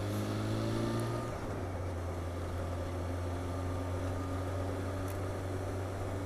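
Motorcycle engine running under way with road and wind noise, a steady drone; the engine note rises a little over the first second or so, then holds steady.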